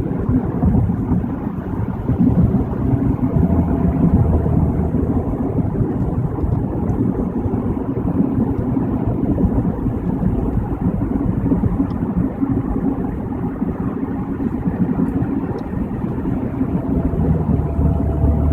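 Steady road noise heard from inside a moving car on a wet freeway: tyres on wet pavement and engine hum, a continuous low rumble.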